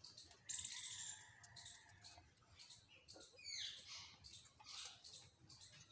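Faint chirping of birds, with short high calls repeating and one falling call about three and a half seconds in, over light clicking from rabbits eating grain.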